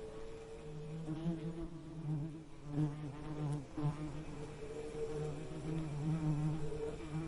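Bees buzzing, a steady low hum that swells and fades in loudness as they move about.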